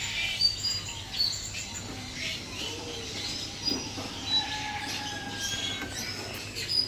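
Several birds chirping and calling, with many short high chirps overlapping one another throughout.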